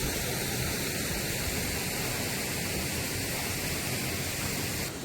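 Steady rush of a waterfall pouring into a river pool.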